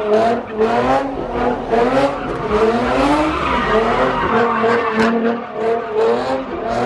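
Car engine revving hard, its pitch surging up and down about twice a second, with tires skidding and squealing as the car spins donuts.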